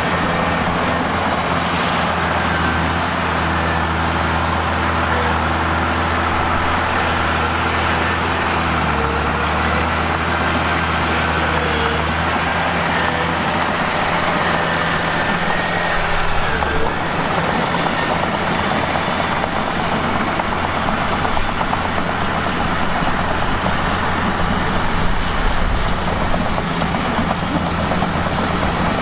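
Diesel engine of a Mitsubishi bulldozer running steadily while it pushes rock, its note dropping about a third of the way in and shifting again about halfway through.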